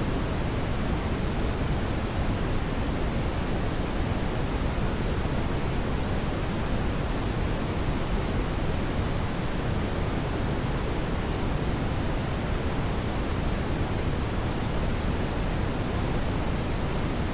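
Brown noise: a steady, deep, even rushing hiss with no changes.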